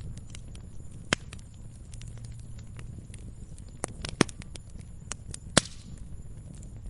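Wood fire crackling in a fireplace: irregular small pops and ticks over a low steady rumble of the flames, with a few sharper snaps about a second in, around four seconds in and near five and a half seconds.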